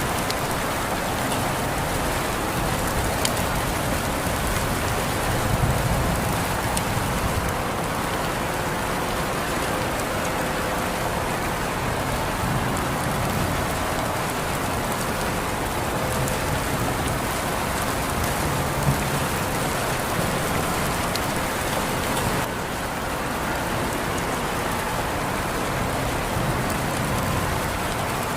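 Steady rain falling on a surface, an even dense hiss with scattered drop ticks.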